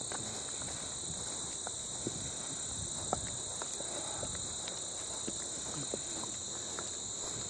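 Steady, high-pitched insect chorus droning without a break, with a few soft footsteps clicking now and then.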